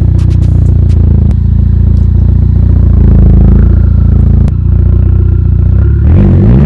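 Volkswagen Scirocco's engine running loud and steady through its aftermarket DKU Diablo performance exhaust, a deep drone with a few sharp clicks in the first second or so. About six seconds in it is revved, the pitch rising and falling.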